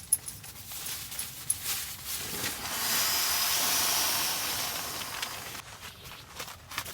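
A soft hiss that swells about two and a half seconds in and fades away over about three seconds, with a few sharp snaps near the start.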